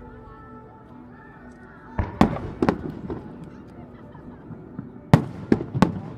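Aerial fireworks shells bursting. There is a quick cluster of about four bangs about two seconds in, then three sharp bangs close together near the end.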